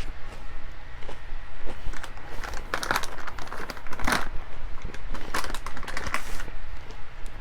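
Close-miked eating sounds: chewing with crinkling and rustling, with louder bursts about three, four and five and a half seconds in, over a steady low hum.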